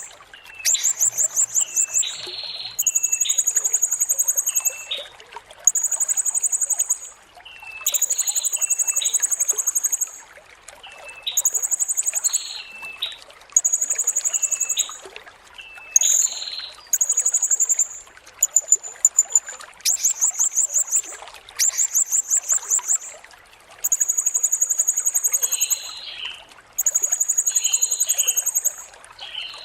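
Blue-crowned hanging parrots (serindit) singing: very high, rapidly trilled phrases repeated about a dozen times, each lasting one to two seconds with short gaps between, along with shorter chirps. Under the song runs a steady trickle of running water.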